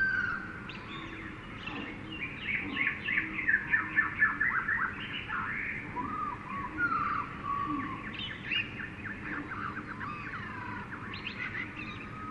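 Jungle soundscape of several birds calling at once: a quick run of sharp, falling chirps, loudest about three to four seconds in, over slower whistled notes.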